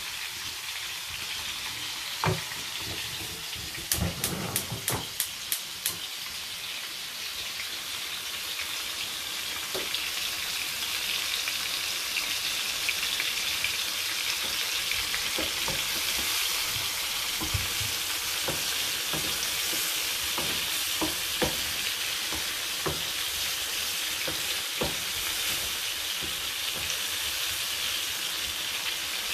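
Prawns sizzling as they fry in oil in a frying pan, with a wooden spoon knocking and scraping against the pan as they are stirred. A quick run of about six knocks comes about four seconds in, and the sizzle grows a little louder after about ten seconds.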